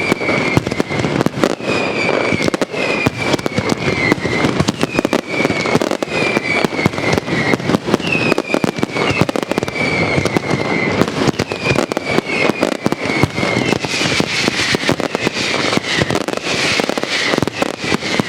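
Castillo fireworks barrage: a dense, continuous crackle of rapid bangs, with short falling whistles repeating about once a second. The bangs grow busier and brighter in the last few seconds.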